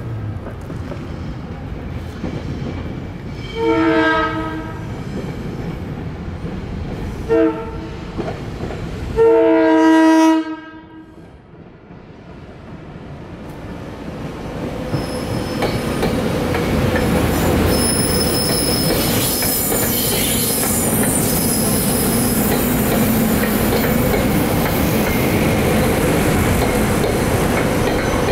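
SEPTA Regional Rail electric train sounding its multi-tone horn in a long, a short and a long blast, which ends the standard long-long-short-long grade-crossing signal. Then the train rolls through the crossing, its wheel and rail noise building to a steady roar with a thin high wheel squeal over it.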